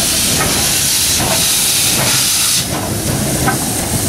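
Steam locomotive venting steam with a loud hiss that drops away about two and a half seconds in, over a low rumble.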